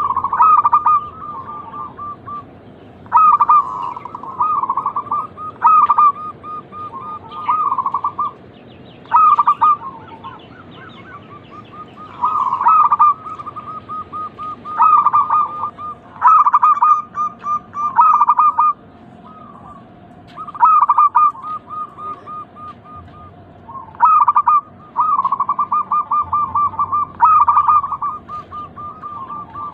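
Zebra doves (perkutut) cooing: rapid trilled, staccato phrases repeating every two or three seconds, several birds overlapping so that fainter trilling fills the gaps between the loud phrases. A lure recording of dove song, meant to set other perkutut singing.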